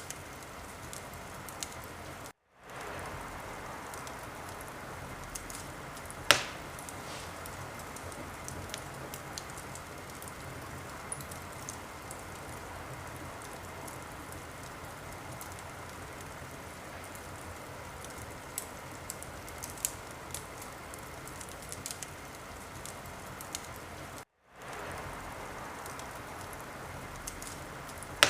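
Wood fire in a fireplace crackling and hissing steadily, with scattered small snaps and one loud pop about six seconds in. The sound cuts out briefly twice and fades back in.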